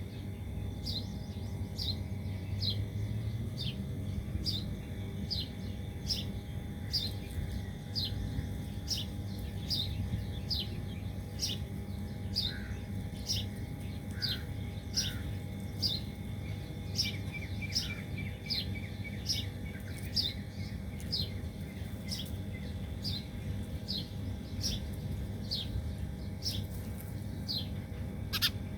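A small bird repeats a short, high chirp that sweeps downward, evenly and more than once a second, with a brief falling series of lower notes about halfway through. A steady low rumble runs underneath.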